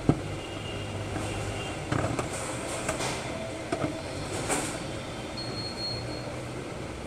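Scattered light clicks and knocks of a desktop power supply's case being opened, its screws being undone, over a steady low background hum.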